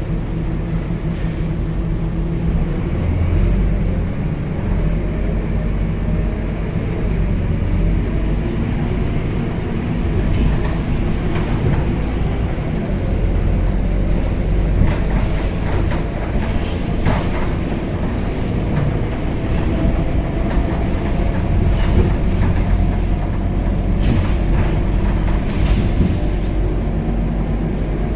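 Cabin sound of a Scania K270UB city bus on the move: a steady low engine and road rumble, with scattered rattles and knocks from the body and fittings.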